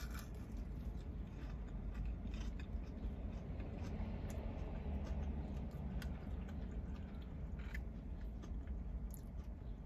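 Close-up chewing of a crispy McDonald's chicken nugget: scattered small crunches and mouth sounds over a steady low hum.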